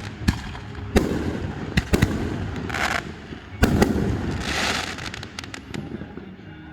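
Fireworks shells bursting: several sharp bangs in the first four seconds, some followed by a crackling hiss, then a quick run of small pops a little after five seconds.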